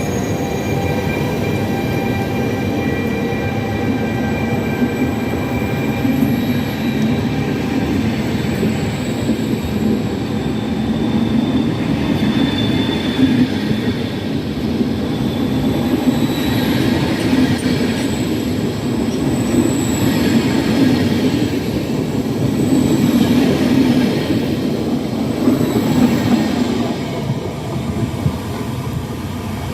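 A train rolling along the tracks at close range: a steady rumble, with thin, high wheel squeals coming and going, easing slightly near the end.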